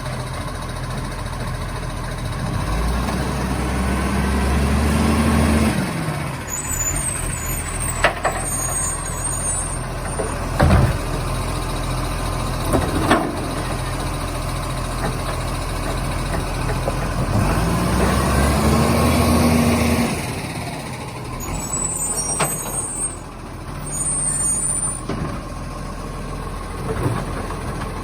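Garbage truck running at the kerb: its engine revs up twice for a few seconds each, the pitch rising and then dropping back. Several sharp knocks and short hisses of air come in between.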